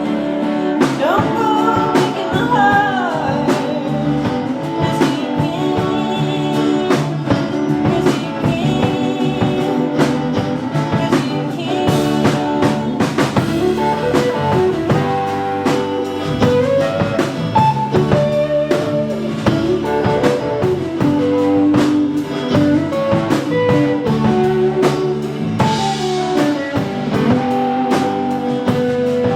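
Live band playing with drum kit and guitar, and a singing voice over it.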